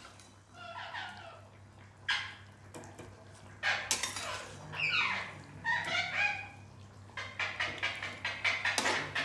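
Pet green parrot calling: a series of short, harsh calls that fall steeply in pitch, coming in a quicker run near the end.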